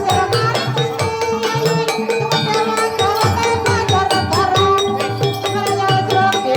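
Live accompaniment for an ebeg (kuda kepang) trance dance: hand drums and tuned mallet percussion play a fast, steady rhythm with ringing held tones.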